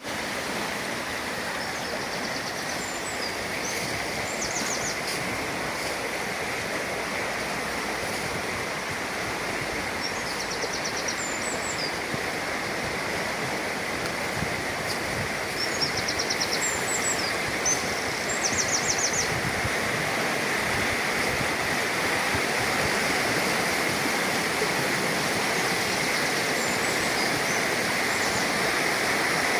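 Steady rushing of running water, a stream or small waterfall. Brief high, rapid trills come through it several times, most around the middle.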